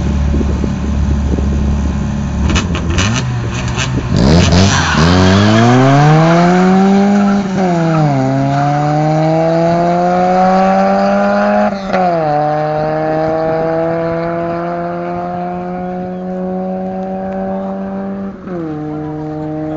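Opel Kadett GSI and Opel Corsa GSI engines revving at the start line, then launching in a drag race. The engine note climbs steeply, drops at three upshifts and climbs again after each one, and grows fainter as the cars pull away.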